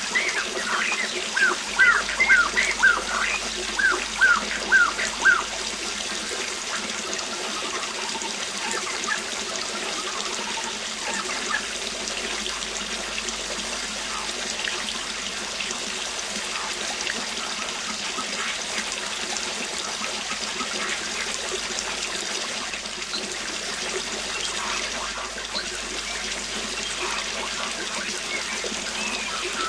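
Steady rush of a waterfall. A bird sings a quick series of short notes that fall in pitch, about two or three a second, over the first five seconds or so. Fainter bird notes come now and then after that.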